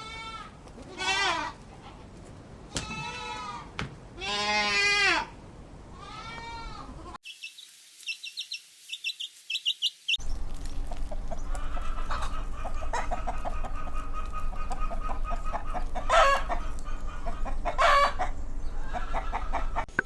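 Goats bleating, a string of separate wavering calls, up to about seven seconds in. After a cut come short high chirps for about three seconds, then chickens clucking in a flock over a steady low hum, with two louder calls near the end.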